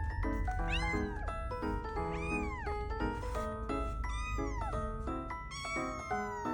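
A kitten meowing about four times, each call rising and then falling in pitch, over background music.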